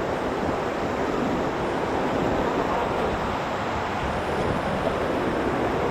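Whitewater rapids rushing steadily, an even wash of fast river water with no breaks.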